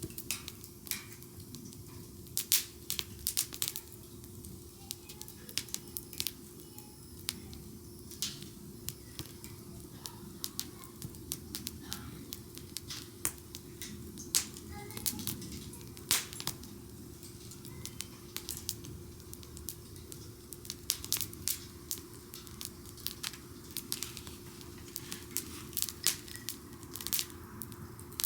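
Wood campfire crackling, with frequent sharp, irregular pops and snaps from the burning wood.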